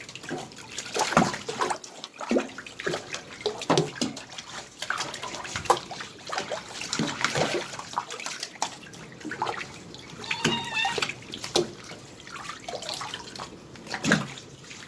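Water splashing and sloshing in irregular strokes as a kitten is dipped and washed in a basin of bathwater.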